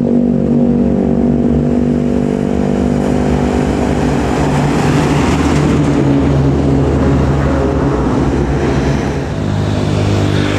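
Heavy road vehicle passing close along the road: an engine's steady hum at first, then tyre and wind noise building around the middle and easing off near the end.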